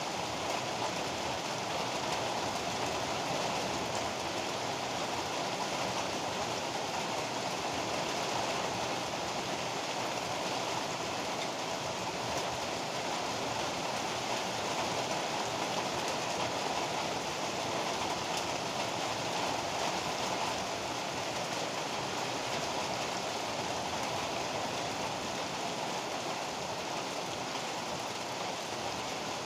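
Heavy rain pouring down steadily, an even rushing hiss with no breaks and no thunder claps.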